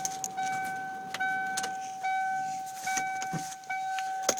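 1995 Ford F-350's in-cab warning chime dinging repeatedly, one steady tone broken into rings about every 0.8 seconds, with the ignition key switched on and the engine not yet started. Keys jangle and a few sharp clicks sound over it.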